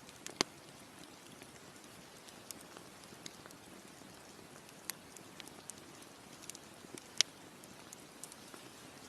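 Wood campfire crackling: scattered sharp pops and snaps over a steady soft hiss, with the loudest pops about half a second in and about seven seconds in.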